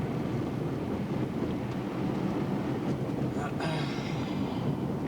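Steady road and tyre rumble inside a moving car's cabin. A brief higher-pitched sound cuts in a little past the middle.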